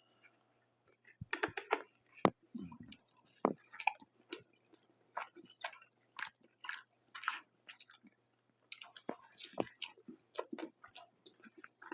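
Close-miked biting and chewing of thick Detroit-style pizza: a first bite a little over a second in, then mouth sounds with several sharp smacks and crunches a second.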